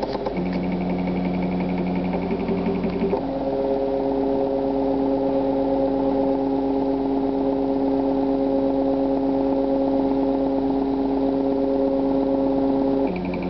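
Stepper motors of a DIY CNC hot-wire foam cutter running, a steady whine whose pitch jumps to a new note about half a second in, again at about three seconds, and near the end as the machine's moves change speed.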